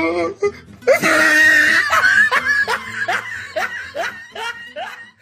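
A person laughing hard: a loud, high outburst about a second in, then a quick run of short, breathy laughs, about three a second.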